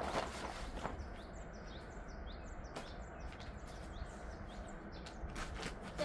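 A small bird chirping, a run of short high notes at about three a second through the middle, over faint rustles and soft steps.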